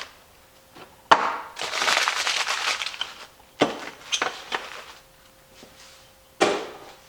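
Parts and packaging handled on a workbench: a sharp knock about a second in, then a couple of seconds of rustling, a few lighter knocks and a heavier thump near the end.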